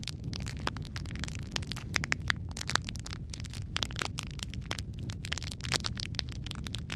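Wood fire crackling and popping: dense irregular snaps over a steady low rumble of flames.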